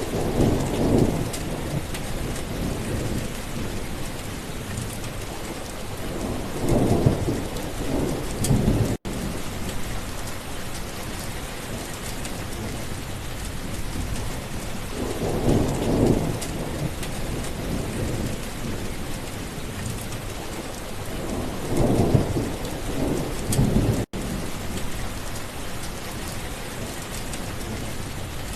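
Steady rain falling in a thunderstorm, with low rolls of thunder rumbling up four times. The sound drops out for an instant twice, about a third and about four-fifths of the way through.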